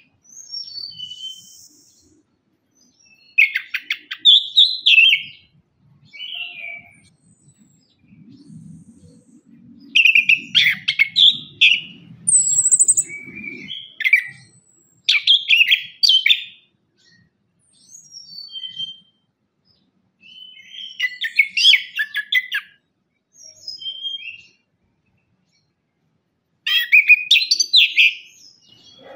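Orange-headed thrush singing: short, varied phrases of whistles and fast trills, each a second or two long, repeated every couple of seconds with brief pauses between.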